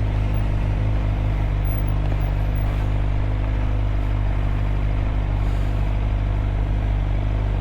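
2013 Suzuki GSX-R600's inline-four engine running at a steady, unchanging pitch.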